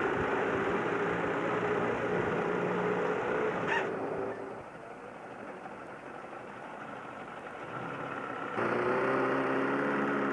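A boat's engine running steadily with an even hum. It falls quieter for a few seconds in the middle, then comes back abruptly, with a single click shortly before the drop.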